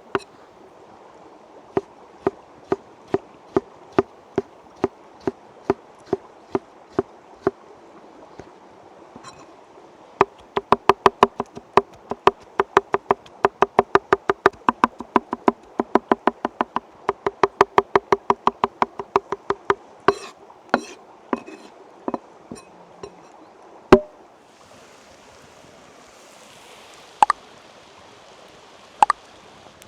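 Rhythmic knocking of a hard object on wood, about two knocks a second at first, then a faster and louder run of about three to four a second after a short pause, ending with a few scattered knocks and one heavier one.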